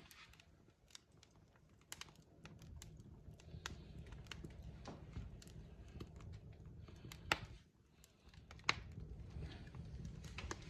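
Log fire crackling: irregular sharp pops and snaps over a low, steady hiss of burning wood. The loudest pops come about seven and nine seconds in.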